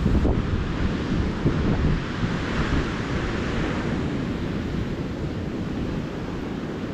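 Atlantic surf breaking and washing up the beach: a wave's hiss swells about two seconds in. Wind gusts buffet the microphone with a low rumble at the start.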